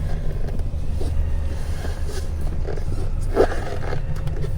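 Steady low rumble of a car in motion, heard from inside. About three and a half seconds in there is one short rubbing sound.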